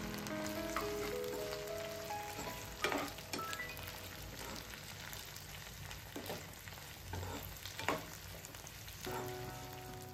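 Pork intestines and green chillies sizzling in hot oil while a metal spatula stirs them, scraping the pan several times in short sharp strokes. Soft background music plays at the start and comes back near the end.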